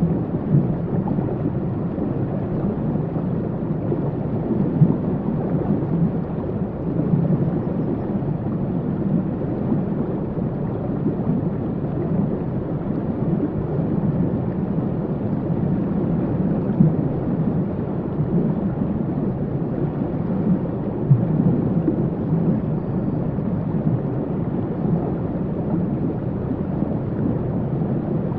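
Waterfall: a steady, deep rush of falling water with small surges, its sound lying low with little hiss.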